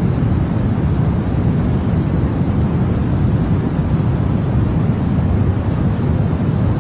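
Continuous white noise for baby sleep: a steady, even rushing hiss, weighted toward the deep end, that does not change.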